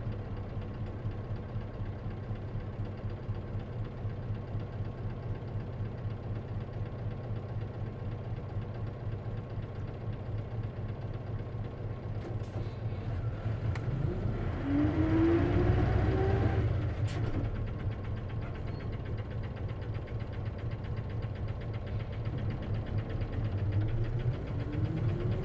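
Inside an Isuzu KC-LV380N city bus: the diesel engine runs steadily at low revs, then about halfway through it revs up with a rising whine for two or three seconds before settling back. Near the end it climbs again.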